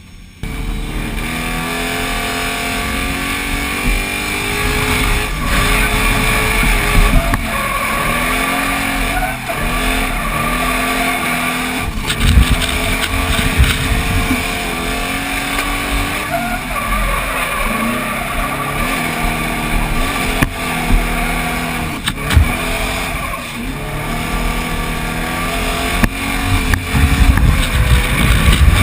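Drift truck's 1UZ-FE V8 revving hard through a lap, its pitch rising and falling over and over, with steady tyre squeal from the sliding rear tyres and a few loud thumps.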